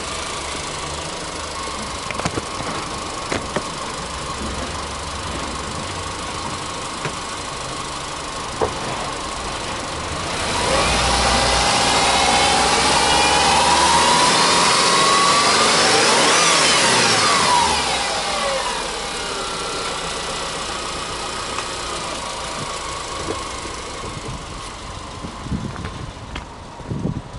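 Subaru Impreza 20S 2.0-litre flat-four (boxer) engine idling, then revved with no load about ten seconds in: the pitch climbs for several seconds to a peak and falls back, and the engine settles to a steady idle again.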